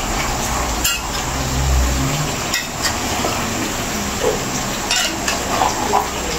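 Seasoned chicken pieces sizzling in a large aluminium pot over a gas burner, with a metal spoon stirring and scraping through them and a few sharp clinks against the pot.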